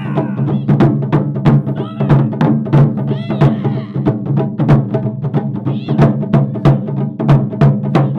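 Japanese taiko drum ensemble playing a fast, driving rhythm of hard strikes.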